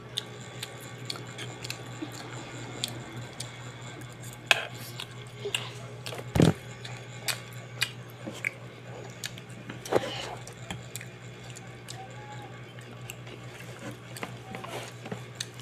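A child chewing noodles, with scattered small clicks and knocks of a metal spoon against a non-stick cooker pot, the loudest knock about six seconds in. A steady low hum runs underneath.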